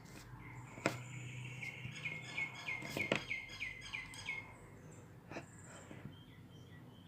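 A small bird chirping a quick run of about a dozen notes, close to four a second, then stopping. A few sharp clicks come with it, the loudest just before the chirping starts.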